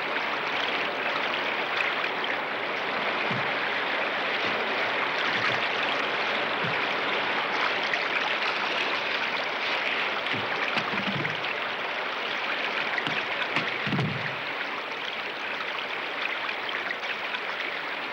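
White-water rapid on the Nymboida River rushing steadily, with a few faint low thumps around the middle.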